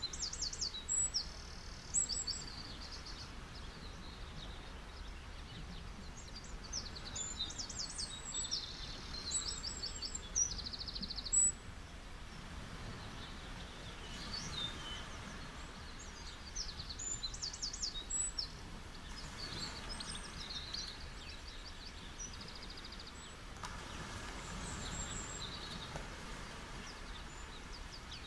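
Small birds chirping and trilling in repeated short phrases over a steady wash of ocean surf.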